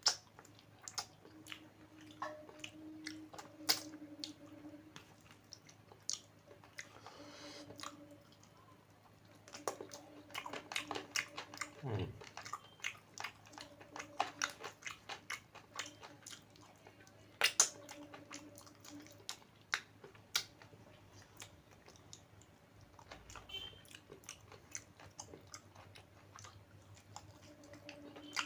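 Close-miked mouth sounds of a person chewing and biting food: many short wet clicks and smacks, with an occasional crunch.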